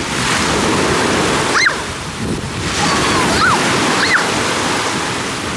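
Ocean surf washing onto the shore, a steady rushing noise, with wind buffeting the microphone. A few short, high calls rise and fall over it, about a second and a half in and twice more later.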